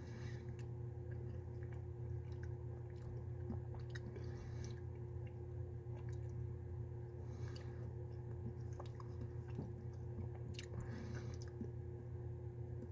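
Quiet chewing with small faint clicks from the mouth, a person chewing vitamins, over a steady low hum.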